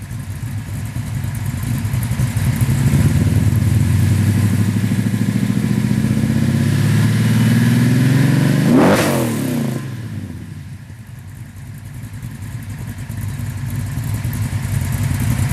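1971 Chevrolet Monte Carlo's 502 cubic-inch big-block V8 running through a 3-inch exhaust with Magnaflow 22-inch mufflers. The exhaust note builds and holds loud, sweeps past about nine seconds in, drops away, then builds again near the end.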